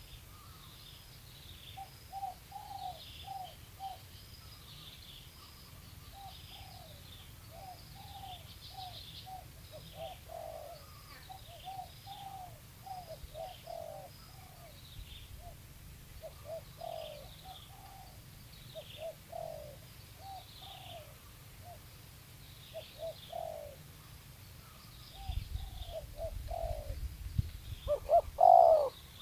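Spotted dove cooing over and over in short phrases, with small birds chirping higher above it. Near the end a low rumble comes in and one coo is louder.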